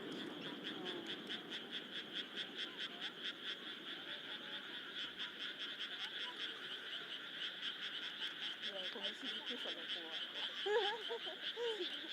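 A chorus of frogs calling, a steady, rapid, even pulsing that carries on without a break, with a few lower wavering calls coming in near the end.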